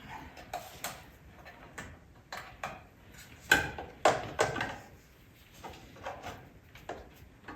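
Irregular knocks, clunks and scrapes of parts being moved and fitted on an ATV, with a cluster of sharp knocks about three and a half to four and a half seconds in.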